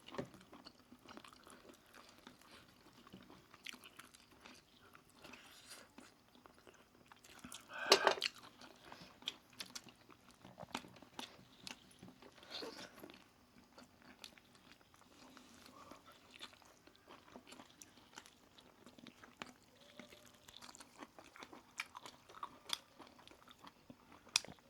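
Close-miked chewing and biting of roast chicken, with scattered crunches and small clicks. One much louder crunch comes about eight seconds in, with smaller ones a few seconds later.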